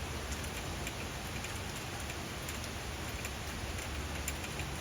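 Steady rain falling, with many small, irregular drop ticks hitting nearby surfaces.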